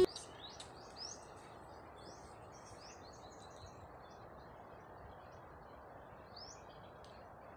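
Faint, short rising chirps of small birds, scattered throughout, over a steady low hiss of open-air background noise.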